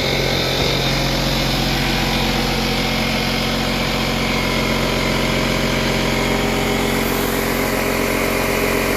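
Bostitch 6-gallon pancake air compressor running steadily, its motor and pump loud, pumping up the tank.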